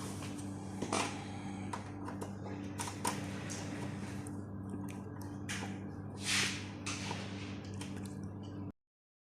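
Steady electrical mains hum with scattered clicks, taps and short rustling swishes of handling. The sound cuts off abruptly near the end.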